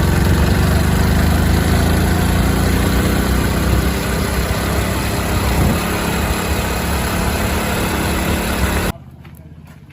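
Diesel engine of a JCB 3DX backhoe loader running steadily at working speed. It cuts off abruptly about nine seconds in, leaving a much quieter background with a few faint clicks.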